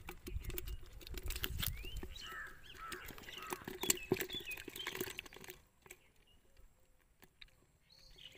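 Small birds chirping, with irregular sharp clicks and knocks through the first half that die away about five and a half seconds in.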